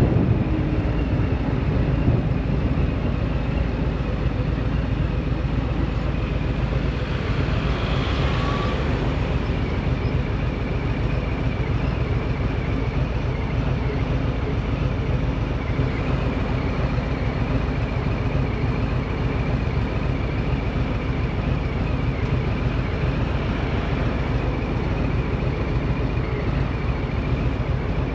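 A road vehicle driving along at a steady speed, its engine and road noise running steadily.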